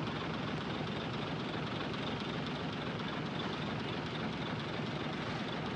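Heavy diesel earthmoving machinery running steadily, a constant rumbling engine noise with no change in level.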